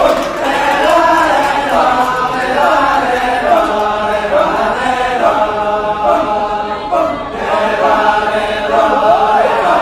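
A group of voices chanting together in the Balinese kecak chant, holding and shifting sung pitches in unison.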